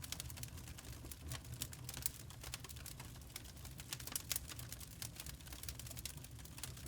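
Wood fire crackling: dense, irregular snaps and pops over a steady low rumble.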